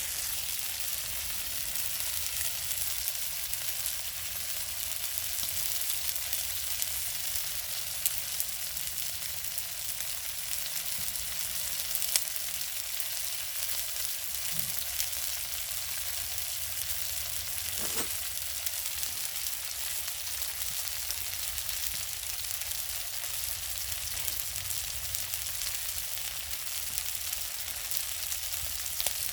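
Clams grilling on a grate over a wood fire: a steady sizzling hiss with a few sharp pops.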